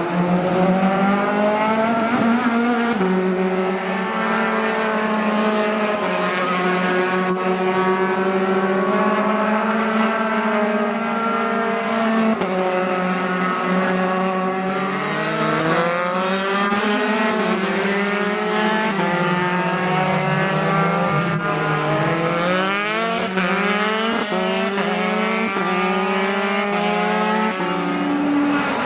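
Engines of several Dallara F312 Formula 3 cars running at once, overlapping, at fairly steady revs with their pitches drifting up and down. Some engines rev up in rising glides late on.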